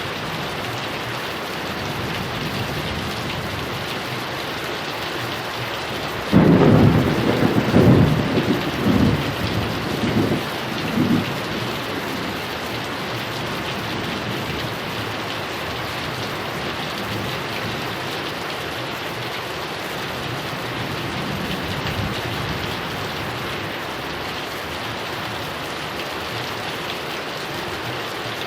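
Heavy rain falling steadily. About six seconds in, a thunderclap breaks in suddenly and rolls on in several rumbling surges for about five seconds before fading back into the rain.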